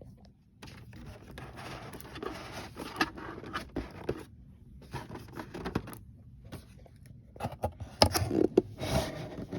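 A hair dryer's cardboard box and packaging being opened and handled: irregular scraping and rustling with scattered clicks, loudest about eight to nine seconds in.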